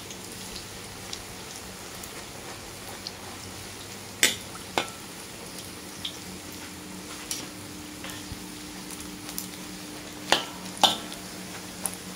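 Egg batter deep-frying in a wok of hot oil, a steady sizzle driven by the water mixed into the batter. Four sharp utensil knocks on the wok come in two pairs, about four seconds in and again about ten seconds in.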